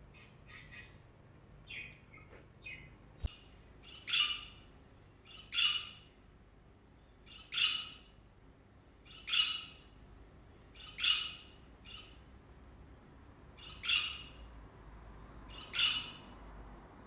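Budgerigar perched on a hand giving short, sharp chirping calls, seven loud ones about every two seconds after a few softer chirps. There is a single click about three seconds in.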